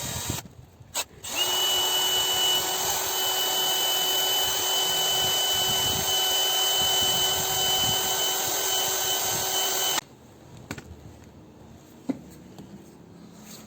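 Small power tool running at a steady high speed with a constant whine, cutting a groove. It starts about a second in and cuts off suddenly about ten seconds in.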